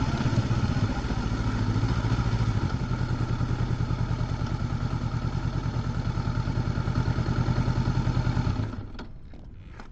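Honda CB500X's parallel-twin engine with stock exhaust idling with an even pulse, then switched off near the end. Faint clicks follow.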